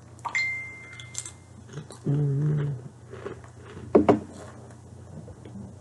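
A person eating a crunchy lentil chip, with small chewing clicks, a short hummed "mmm" about two seconds in, and a couple of sharp crunches about four seconds in.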